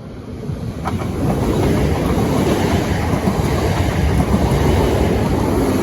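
Southeastern Class 465 Networker electric multiple unit passing close by. Its rumble builds over the first second or so, then holds steady and loud.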